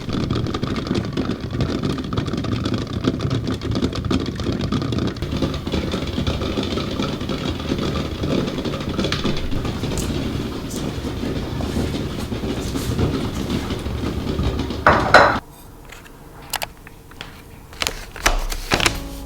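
Electric kitchen appliance motor running steadily, then switched off suddenly about fifteen seconds in, followed by a few light knocks.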